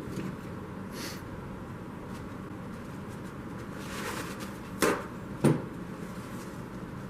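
Two sharp knocks about half a second apart, a little past the middle, over a low steady hum, with a few fainter taps: handling of tools or parts during the tire inflator repair.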